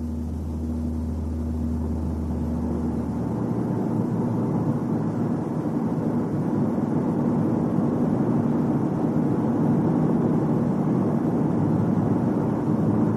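Car running on the road: a steady low hum for the first few seconds, then a wider rushing running noise that grows gradually louder.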